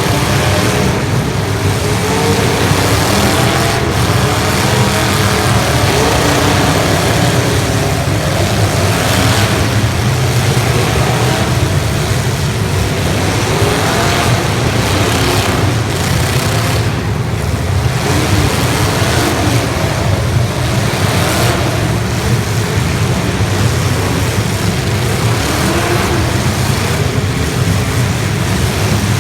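Several demolition-derby car engines running hard and revving, their pitch rising and falling, with a few thumps of impacts mixed in.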